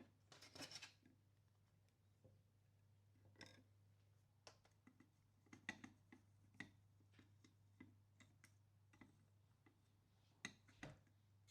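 Faint, irregular clicks and light taps of small hard parts being handled on a workbench, with a close cluster of clicks in the first second, over a low steady hum.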